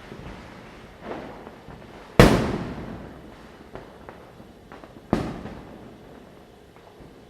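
Diwali firecrackers going off at night: a softer boom about a second in, the loudest bang just after two seconds and another strong bang about five seconds in, each followed by an echo that dies away over a second or so. A few small pops come in between.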